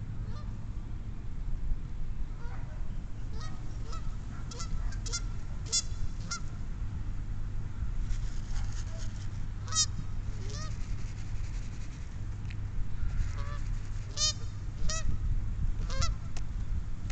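Waterfowl at scattered feed calling, short repeated calls coming in clusters from several birds, over a steady low rumble.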